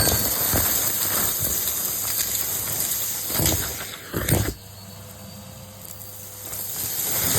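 Henry cylinder vacuum cleaner running, its nozzle suction hissing loudly with a couple of louder surges. The hiss then drops for a few seconds to a quieter run with a steady whine, and grows loud again near the end.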